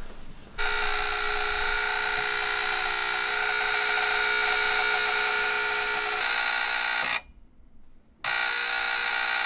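Loud electrical buzzing from a radiant boiler's zone valve control box, caused by a failing relay on its board. It starts about half a second in, cuts out abruptly around seven seconds, comes back about a second later and stops again near the end.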